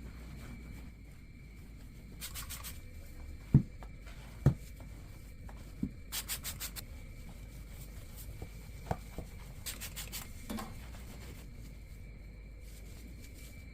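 Scrubbing strokes on a surface in three short, brisk scratchy bursts, with two dull thumps between the first and second bursts.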